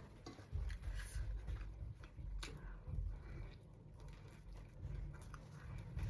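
Eating sounds close to the microphone: soft crackles and clicks with irregular low bumps, typical of someone chewing and handling fast food.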